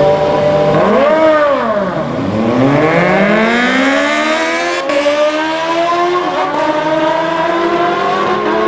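Drag-racing engine revving: a quick rise and fall in pitch about a second in, then a long, steady climb in pitch as it accelerates.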